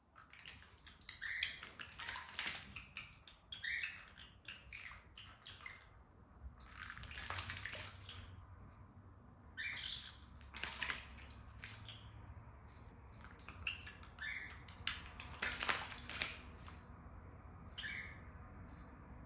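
Green-cheeked conure bathing, splashing water in irregular bursts, with a few short chirps in between.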